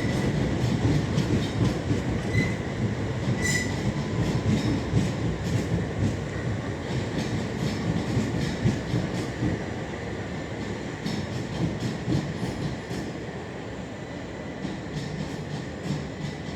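Passenger train running along the platform: a steady wheel-and-track rumble with scattered clicks over the rail, two short high wheel squeals in the first few seconds, fading slowly as the train moves away.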